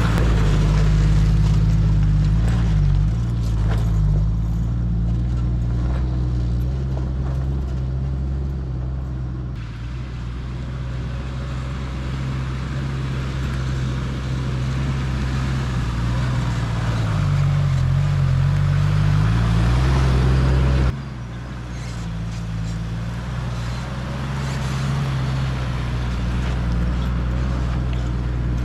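Toyota LandCruiser Troopcarrier driving along a dirt four-wheel-drive track, its engine a steady low drone with the revs rising and falling at times. The sound changes abruptly about two-thirds of the way through.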